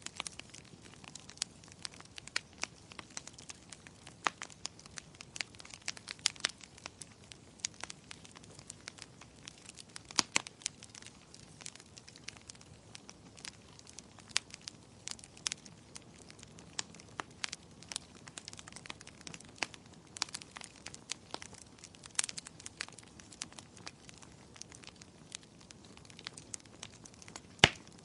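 Wood fire crackling in a fireplace: irregular sharp pops and snaps over a soft, steady hiss, with a few louder pops, one near the end.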